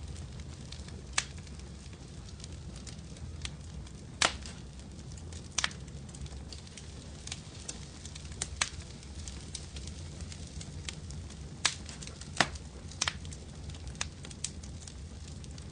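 Fireplace fire crackling: a steady low rumble of flames with irregular sharp pops and snaps, the loudest around four and twelve seconds in.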